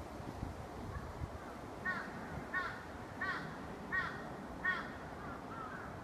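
A bird calling, five evenly spaced calls about two-thirds of a second apart starting about two seconds in, followed by two fainter calls near the end, over a low steady background rumble.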